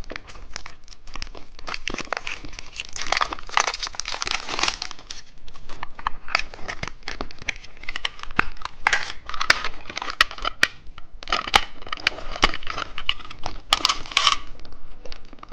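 Plastic candy wrappers being crinkled and torn open by hand: continuous crackling with many sharp clicks and occasional tearing.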